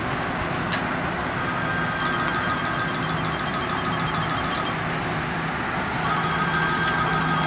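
Steady rushing noise with a low engine hum beneath it. A high thin whine with a rapid ticking comes in about a second in, fades, and returns near the end.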